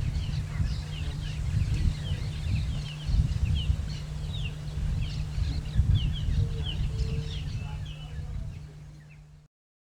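Several small birds chirping, with many short, high, falling chirps repeated quickly over a steady low rumble. The sound fades out near the end.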